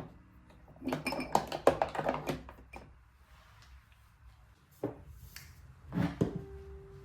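Small cosmetic containers clattering and clicking as they are handled and set down. A quick run of clicks and knocks comes first, then a single knock, and a louder pair of knocks near the end.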